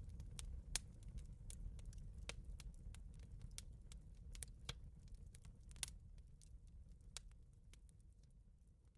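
Wood fire in a fireplace crackling, with scattered sharp pops over a low rumble, the whole sound fading out gradually toward the end.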